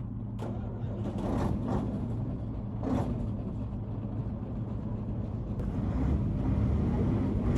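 Diesel engine of a JCB 116D vibratory road roller running steadily, growing louder in the last couple of seconds. A few brief sharp sounds come in the first three seconds.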